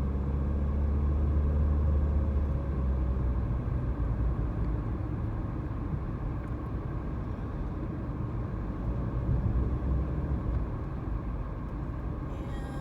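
Car driving, heard from inside the cabin: a steady low rumble of engine and road noise, heavier for the first couple of seconds and then easing off.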